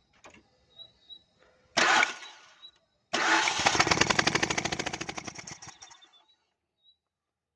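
Suzuki Swift 1.3 engine cranked on its starter during a misfire check: a short burst, then about three seconds of rhythmic cranking that fades out.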